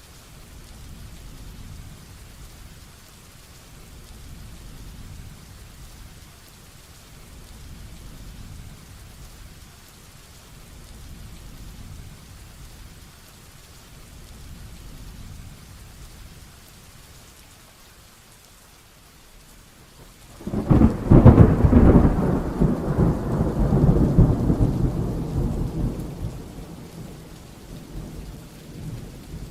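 Steady heavy rain with a low rumble of distant thunder. About two-thirds of the way through, a sudden loud thunderclap cracks and rolls on, fading over several seconds.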